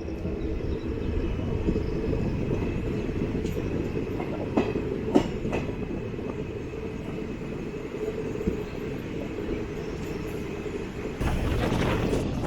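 Diesel multiple-unit train running along the line, heard from inside a coach: a steady rumble of wheels on rail with a few sharp clicks. The sound grows louder and rougher near the end.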